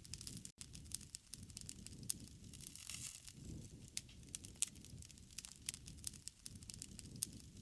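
Wood fire crackling: irregular sharp pops and snaps over a soft, swelling low rush of burning flames.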